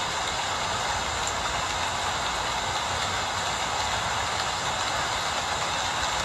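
Steady rain falling, an even hiss with no distinct drops or breaks, over a low rumble.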